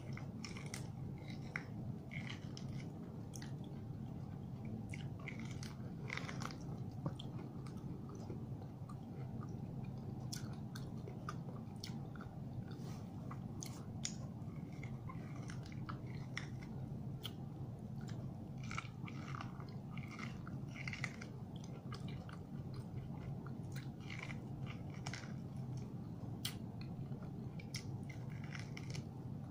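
A person biting and chewing grilled corn on the cob with false teeth: many small crunches and clicks as the kernels come off, over a steady low hum.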